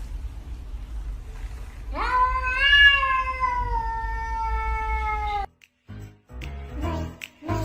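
A cat giving one long drawn-out meow of about three and a half seconds that rises slightly and then slides slowly down in pitch, over a low rumble. It cuts off abruptly, and music with a pulsing beat starts near the end.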